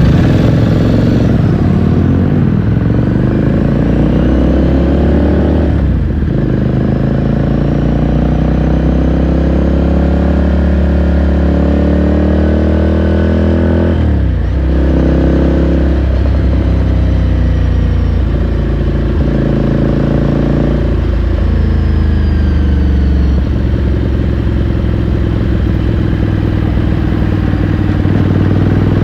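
Ducati Scrambler Sixty2's 399 cc air-cooled L-twin engine and exhaust under way, its pitch climbing as the bike accelerates. It drops sharply at gear changes about six seconds in and around the middle, then runs steadier near the end.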